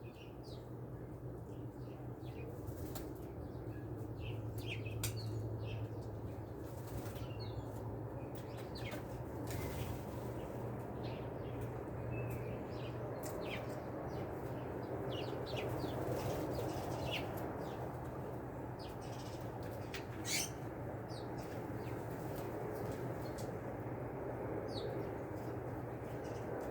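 Small wild birds' wings flapping in short flurries as they fly in and out, with a few brief chips, over a steady low background hum; the sharpest flurry comes about 20 seconds in.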